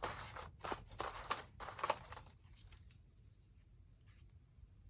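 Paper being handled: a quick run of crisp rustles and clicks that stops a little over two seconds in.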